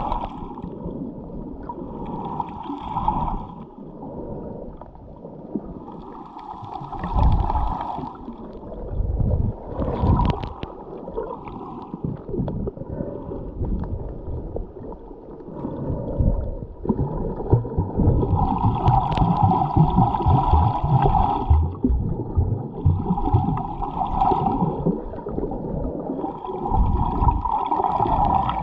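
Scuba diver's exhaled bubbles rushing out of the regulator, heard underwater through a GoPro housing. The bubbling comes in bursts of a second or two every few seconds, one per breath, over a low underwater rumble.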